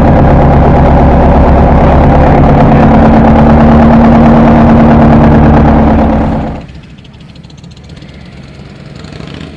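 Motorcycle engine running loudly at steady revs, then cutting away abruptly about six and a half seconds in, leaving a much quieter background.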